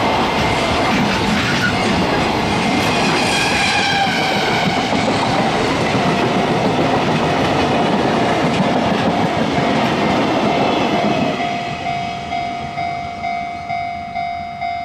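A freight train's container flat wagons rolling past with steady wheel and rail noise until the tail clears about eleven seconds in. A level-crossing warning bell then rings alone, about twice a second.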